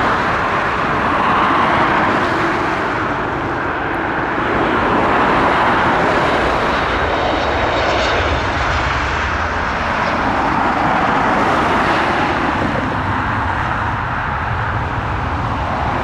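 Jet airliner engines, a loud, steady rush of noise that swells and eases slightly over several seconds.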